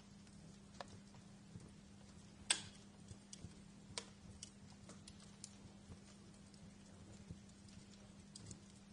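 Wood fire in a fireplace crackling quietly, with irregular sharp pops, the loudest about two and a half seconds in, over a faint steady low hum.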